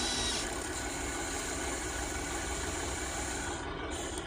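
Radio-controlled toy excavator running steadily, a mechanical hum with a thin high whine that fades about half a second in.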